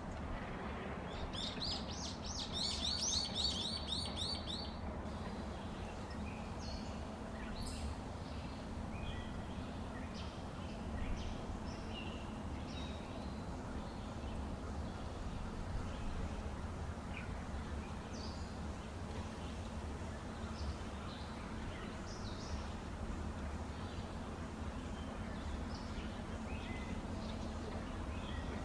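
Small songbirds chirping, with a quick run of high chirps in the first few seconds and then scattered short chirps, over a steady low background noise.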